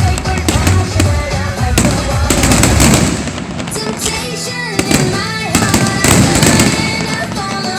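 Fireworks bursting and crackling, densely for about the first three seconds and more sparsely after, with music playing alongside.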